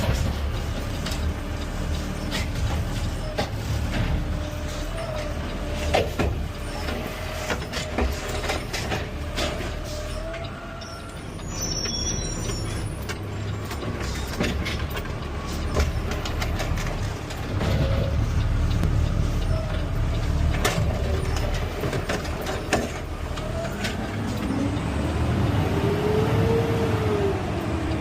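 Peterbilt 520 CNG automated side-loader garbage truck running, with short knocks and clanks scattered throughout and a whine that rises and falls near the end.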